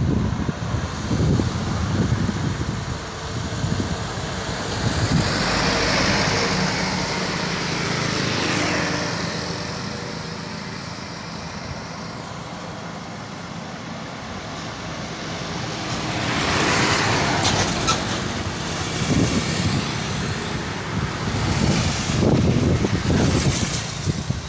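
Motor vehicles passing on a road, their sound swelling and fading as each goes by: two louder passes about 6 and 17 seconds in, with engine rumble throughout and more vehicles near the end.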